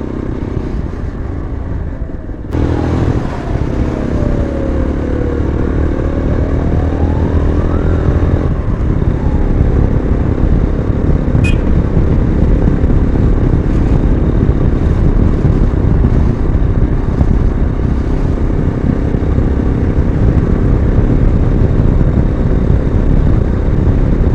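Yezdi motorcycle's single-cylinder engine running under way while riding, its note dipping and then climbing a few seconds in. After that, wind rushing over the microphone grows louder and covers most of the engine.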